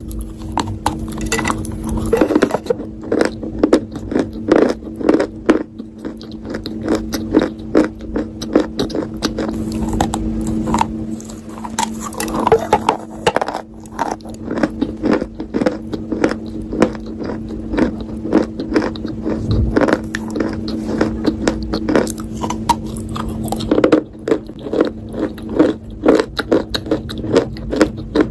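Close-miked biting and chewing of a hard, crunchy earthen item such as slate pencil or baked clay: rapid dense crackling crunches throughout, over a steady low hum.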